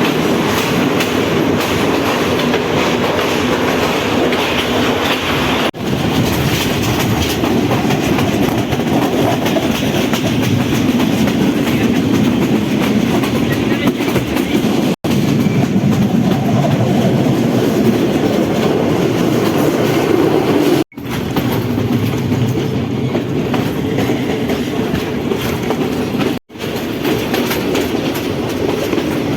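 Passenger train running along the track, with steady wheel-on-rail rumble and clatter. The sound drops out briefly three times.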